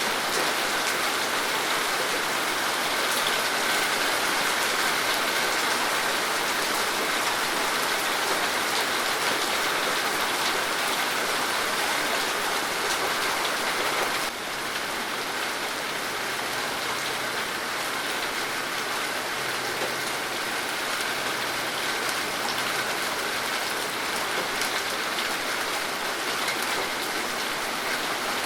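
Steady rain falling: an even hiss with scattered drops ticking. The level steps down slightly about halfway through.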